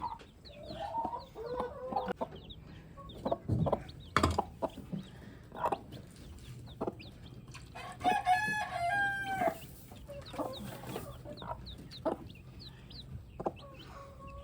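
Chickens clucking and baby chicks peeping in quick high chirps, with a rooster crowing once about eight seconds in. A few sharp knocks sound in between.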